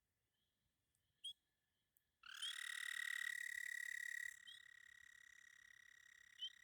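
A frog calling with a long, steady, high-pitched trill. It comes in suddenly about two seconds in, loud for a couple of seconds, then carries on fainter, with a few short chirps over it.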